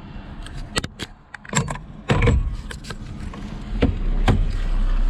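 Sharp plastic-and-metal clicks and clacks of a quick-release steering wheel hub and its lock mechanism being worked by hand, a dozen or so scattered knocks, with a low rumble underneath from about two seconds in.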